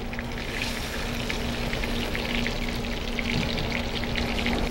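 Egg-soaked croissant halves frying in melted butter in a non-stick pan: a steady, dense sizzle full of small crackling pops.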